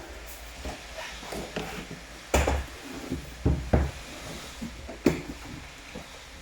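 Irregular knocks and taps on a hard surface over a faint hiss of rain, typical of heavy drips landing: the loudest knock comes about two and a half seconds in, two more close together just after, and another near five seconds.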